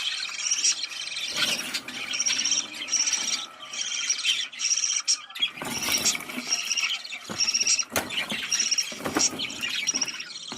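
Budgerigars chattering and warbling, with short high chirps repeated several times a second over a busy warble and a few brief rustles.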